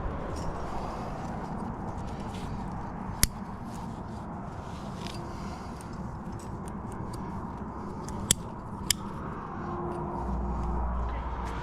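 Metal climbing gear clicking: three sharp clinks, one about three seconds in and two close together near eight seconds, over a steady rustling background. A low hum comes in near the end.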